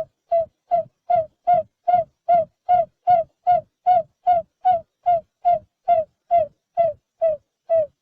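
Barred buttonquail calling: a long, even series of short hooting notes, about two and a half a second, slowing slightly near the end.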